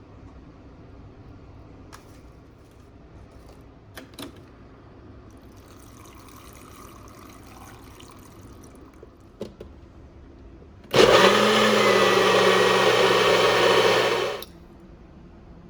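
Countertop blender blending a smoothie: a steady motor whine that starts abruptly about eleven seconds in, runs for about three and a half seconds, then winds down. A few light knocks come before it.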